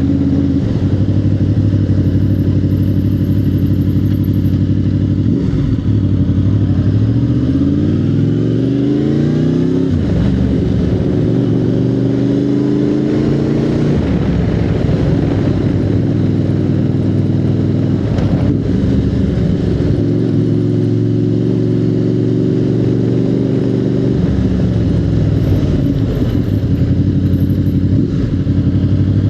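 Motorcycle engine running while riding. Its note climbs as it accelerates about six seconds in, holds steady at cruising speed, drops back about 24 seconds in, and climbs again near the end.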